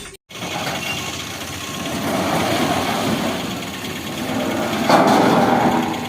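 Engine-driven machinery running with a clattering mechanical noise, which gets louder about five seconds in.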